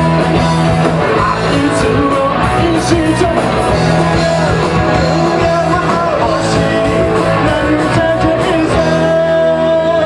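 Live rock band playing loudly: distorted electric guitars over bass and drums. Near the end the drums and low end drop out, leaving guitar chords ringing.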